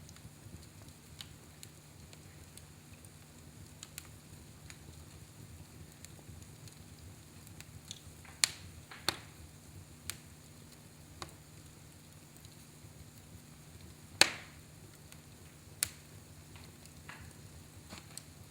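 Wood fire in a fireplace crackling, with scattered sharp pops, a few close together about halfway through and the loudest about three quarters of the way in. A steady low hum runs underneath.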